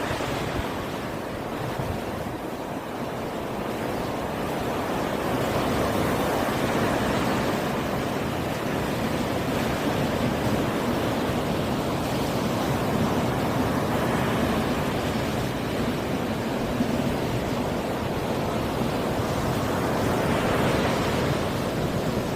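Sea waves washing onto the shore: a steady rush of surf that swells and ebbs, building to louder surges several times.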